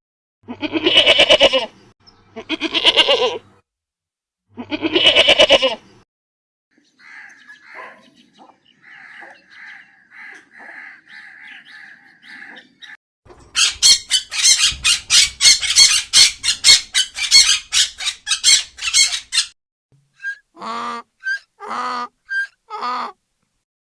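A run of farm animal calls. It opens with three loud, drawn-out bleats about two seconds apart, then faint bird chirping, then a rapid stretch of squawking calls, and near the end four short, pitched calls about a second apart.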